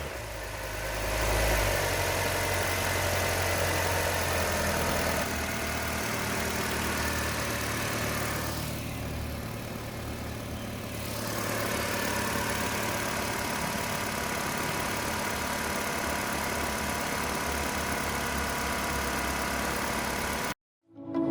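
2012 Nissan Almera's four-cylinder petrol engine idling steadily after a rev has just died away, run as a test of a wrecked car's engine. The sound cuts off suddenly near the end.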